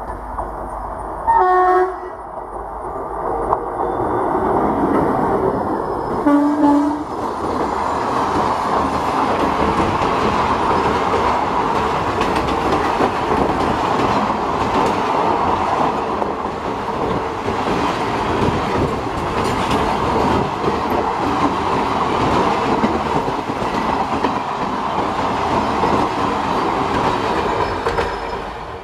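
Indian Railways express train sounding its horn twice, two short blasts about five seconds apart, then running past with a long, steady rumble of wheels on the rails that cuts off suddenly at the end.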